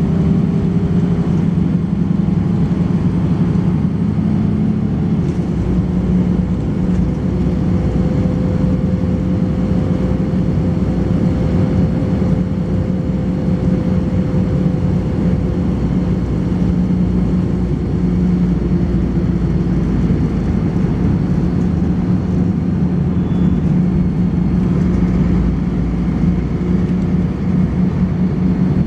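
Volvo B10BLE single-deck bus with a ZF automatic gearbox, heard on board: its rear-mounted six-cylinder diesel engine and drivetrain running steadily under way, the pitch rising slightly partway through and easing off again. A faint steady high-pitched tone sits above the engine sound.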